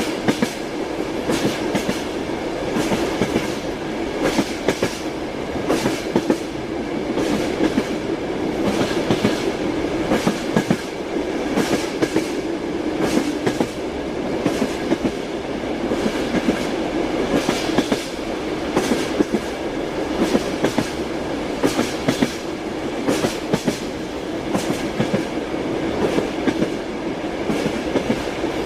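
Train wheels clicking over rail joints in a steady clickety-clack, with the continuous rumble of a moving train beneath the repeated knocks.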